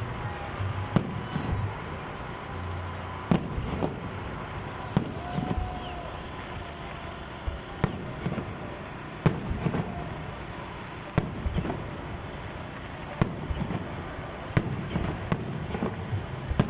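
Fireworks display: firework shells bursting in sharp, irregular bangs, roughly one every second or so, over steady background noise.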